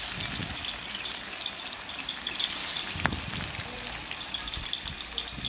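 Chicken kebab pieces deep-frying in hot oil in a pan: a steady crackling sizzle with a sharp click about three seconds in.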